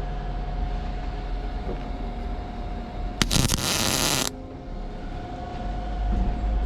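A short arc-welding burst on mild steel: about three seconds in, a loud crackling hiss lasts roughly a second and then stops. A steady low hum with a held tone sits underneath throughout.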